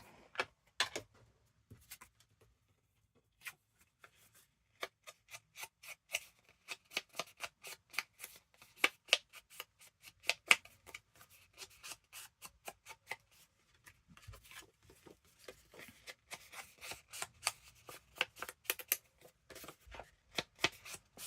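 Paper being inked with quick, repeated rubbing and dabbing strokes of an ink pad or blending tool along its edges, several strokes a second. The strokes begin about five seconds in, after a few faint clicks.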